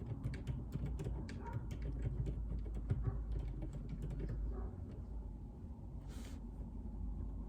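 Typing on a JJK84 mechanical keyboard with Outemu Silent Peach linear switches: a quick run of keystrokes that stops a little past halfway. A short hiss follows near the end, over a low steady room rumble.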